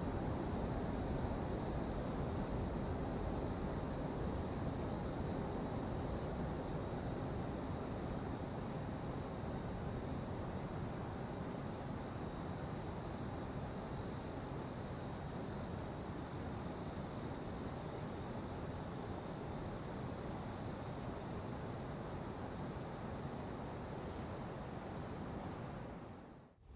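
Insects, likely crickets, chirring in a steady high-pitched drone over a low, even rumble of background noise; the sound fades out near the end.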